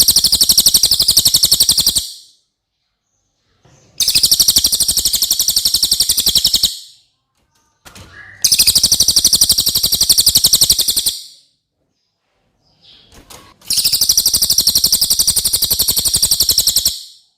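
Cililin bird song: four bursts of a fast, high trill of rapidly repeated notes, each lasting about three seconds with short pauses between them.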